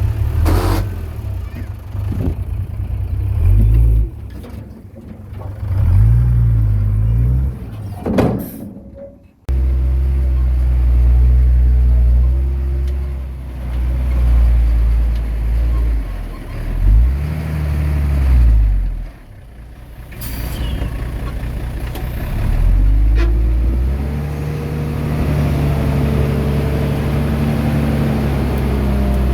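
Heavy diesel engines of a dump truck and bulldozer working. The engine note rises and falls several times as they rev under load, with a short burst of noise about eight seconds in.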